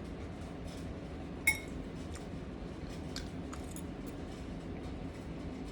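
A metal utensil clinking against a dish: one sharp ringing clink about a second and a half in, then a few faint taps.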